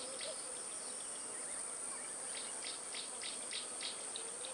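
Steady, high-pitched insect drone, with a run of short chirps at about four a second in the middle.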